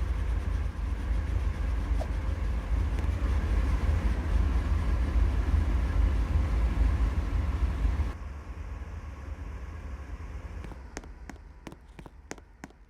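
Road and wind noise from a moving car, a heavy low rumble that drops off sharply about eight seconds in. A few faint clicks come near the end.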